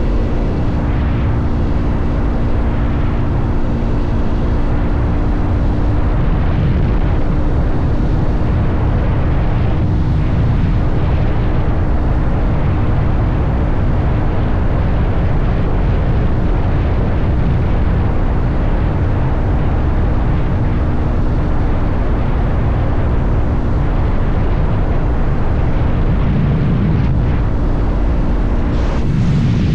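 Motorcycle engine running at a steady cruising speed, its tone holding level, under a heavy low rumble of wind noise.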